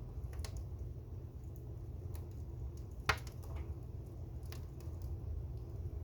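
A fire crackling: scattered small pops and snaps, with one sharp, louder pop about three seconds in, over a low steady rumble.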